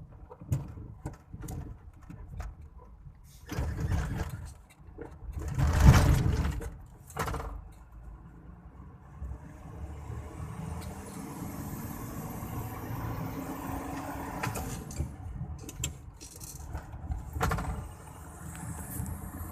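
Mitsubishi Fuso turbo-diesel truck under way: several short bursts of noise in the first half, the loudest about six seconds in, then the engine pulls steadily with its pitch rising through the middle, a faint high turbo whistle rising over it.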